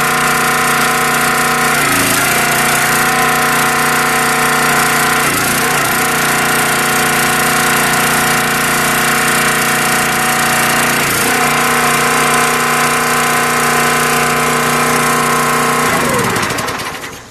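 Small gasoline engine on a brand-new log splitter running steadily, then shut off near the end, winding down with falling pitch.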